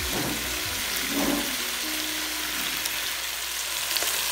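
Chicken pieces sizzling in a pan as they fry in their own fat with garlic and onion, with a steady hiss while the pieces are turned over with tongs.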